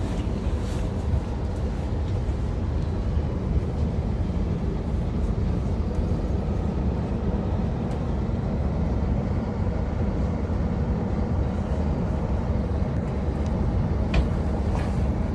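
Passenger train running at a steady pace: a continuous low rumble with no change in speed.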